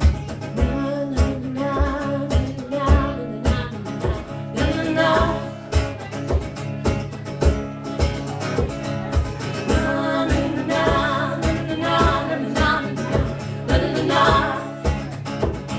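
Live acoustic guitar strumming with singing over a steady low beat of about two thumps a second.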